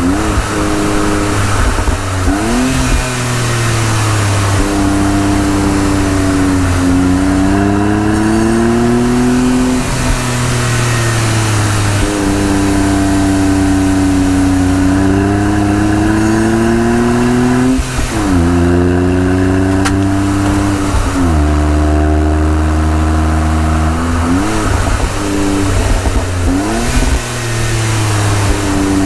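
Honda S660's small turbocharged three-cylinder engine pulling up a mountain road with a manual gearbox. The revs climb steadily in each gear and drop sharply at each of several gear changes, with a few quick blips of the throttle and some stretches of steady cruising.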